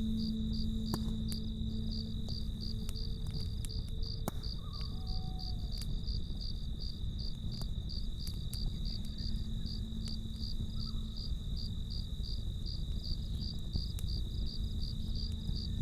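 Crickets chirping in a steady, even pulse over the low rumble of a campfire, with a few sharp crackles from the fire.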